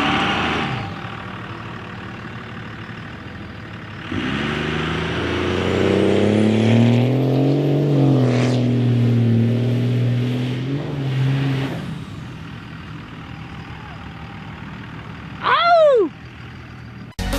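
Diesel pickup truck engine revving up and holding at high revs for several seconds with a high whine over it, then dropping back. Near the end comes a short, loud tone that bends up and down.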